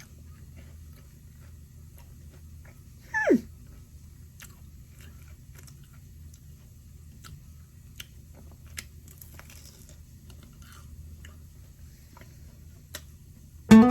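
Quiet eating sounds: faint chewing and scattered mouth clicks over a low steady hum, with one short falling whine about three seconds in. Guitar music starts right at the end.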